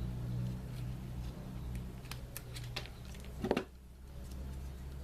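Small clicks and light rustling of hands handling wires and tools while soldering a thermal fuse into a fan motor's lead, with a louder knock about three and a half seconds in, over a steady low hum.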